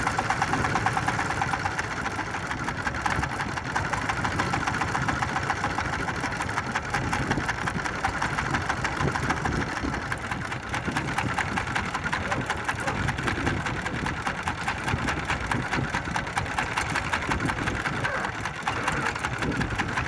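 Small fishing boat's engine running steadily, with a fast, even pulse.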